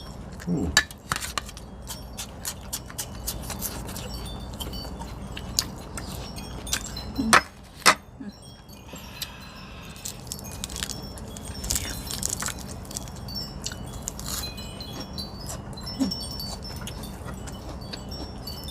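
Light clicks and clatter of eating seafood salad by hand, shells and dishes being handled, with two sharper clicks about seven and eight seconds in. Short high tinkling notes sound throughout, like wind chimes.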